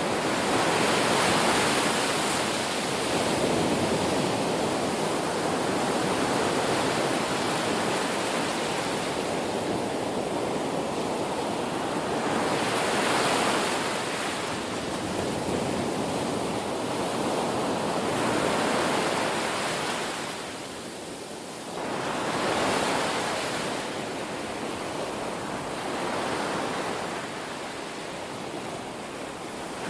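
Ocean waves breaking on a shore, a continuous wash of surf that swells and eases every few seconds, with a brief lull about two thirds of the way through.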